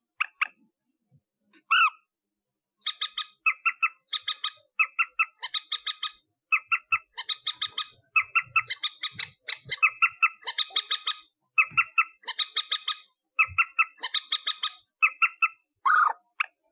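Rail ('mandar') calling: a few short notes, then from about three seconds in a long run of fast rattling bursts of clicks, lower and higher-pitched bursts alternating, several bursts a second. This is a call recording of the kind played as a lure to trap rails at night.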